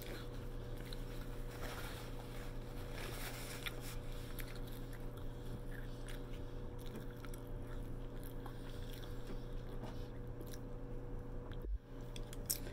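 A person chewing a mouthful of food close to the microphone, with small wet mouth clicks, over a steady low hum. Near the end, a sharp click as chopsticks reach into a glass bowl.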